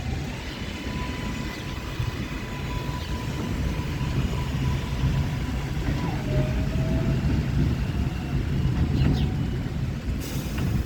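R142-series subway train running through the station: a steady low rumble with a thin electric whine that drops to a lower pitch about six seconds in, and a brief hiss near the end.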